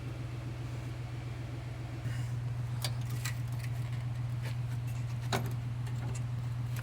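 Pickup truck engine idling steadily, with a few sharp clicks and knocks over it.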